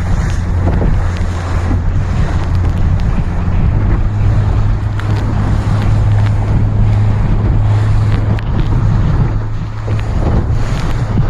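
Strong wind buffeting the microphone over the rush and splash of water along a sailing dinghy's hull as it sails close-hauled in strong wind. The deep rumble is steady, with a few short knocks.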